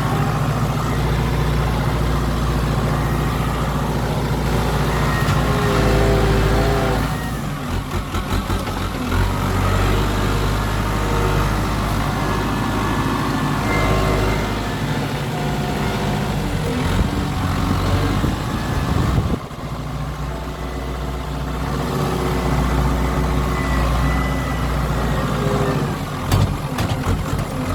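Kubota M7040 tractor's diesel engine running, its sound shifting a few times as it is worked, with a few short knocks near the end.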